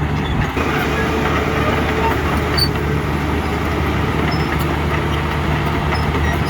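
Heavy diesel engine of earthmoving machinery running steadily at a low, even pitch, with a short dip about half a second in.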